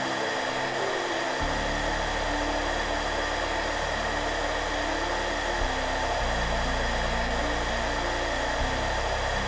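Hairdryer blowing with a steady whooshing noise, under soft background music of slow, sustained low notes.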